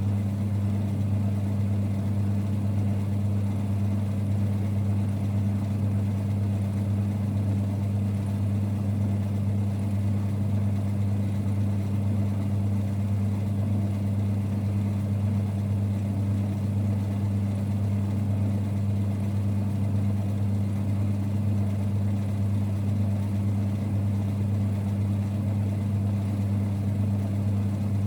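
A 1946 Boxford lathe running with a steady low rumble and hum that does not change.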